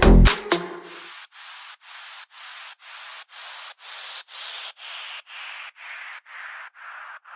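Bass-heavy electronic dance music cuts off about half a second in. Then a hiss with no bass under it pulses about twice a second, slowly falling in pitch and fading: a noise-sweep transition within an electronic track.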